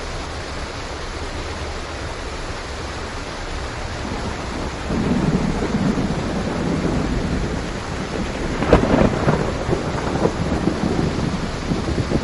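Steady heavy rain hiss; about five seconds in, a thunder rumble builds, with sharp crackling claps of thunder near nine seconds, then it rolls on.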